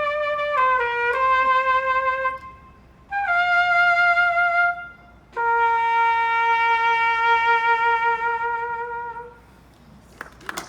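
Solo trumpet playing the closing phrases of a slow melody, unaccompanied. Three phrases end on a long held note of about four seconds.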